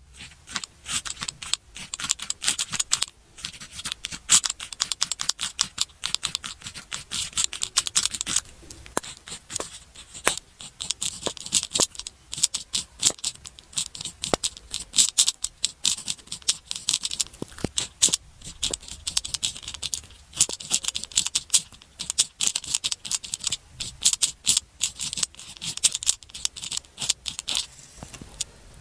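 Pen writing on paper: a steady run of short scratching strokes and light taps, broken by brief pauses.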